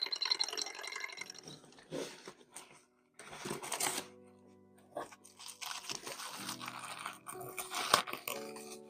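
Packaging being handled, giving irregular crinkling and crunching bursts over soft ambient background music.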